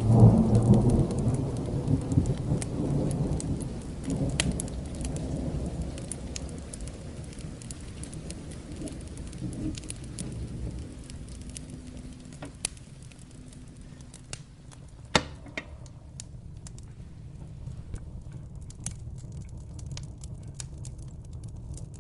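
A roll of thunder breaks right at the start and rumbles away over several seconds, over steady rain. Sharp pops and snaps of a crackling wood fire come throughout, one louder pop near the end.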